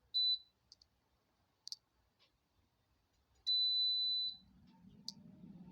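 Digital air fryer being set: a short high beep, a few button clicks, then one long beep about three and a half seconds in. Near the end its fan starts running with a low steady hum.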